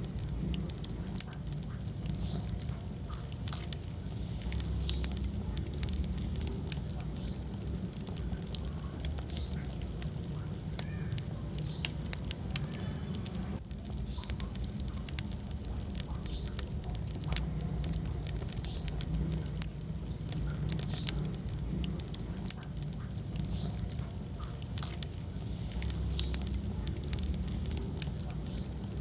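Wood fire crackling in a fireplace: frequent sharp pops and snaps over a steady low rumble of the flames, with occasional brief squeaks.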